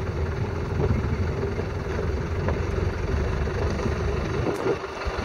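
Safari vehicle's engine idling, heard from inside the car as a steady low drone. The low end drops away about four and a half seconds in.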